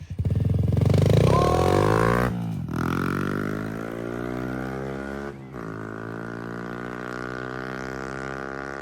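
Single-cylinder four-stroke 110cc pit bike with a Yoshimura exhaust, loud and revving hard for the first two seconds, then the pitch drops and climbs again and the engine holds a steady drone as it rides on, with a brief dip about five seconds in. The new pipe gives it a barking note.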